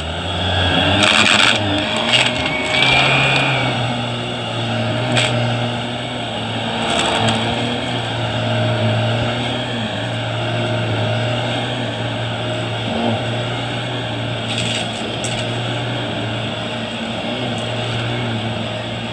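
Vacuum cleaner running with a steady motor hum, broken by a few brief clicks.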